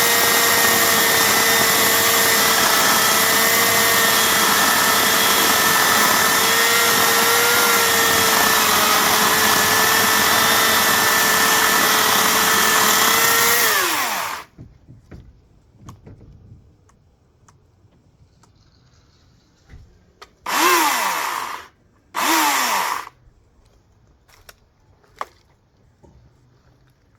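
Hawksmoor 2200W electric chainsaw's motor running steadily for about fourteen seconds, then winding down as the trigger is released. After a pause come two short blips of the trigger, each one spinning up and winding down.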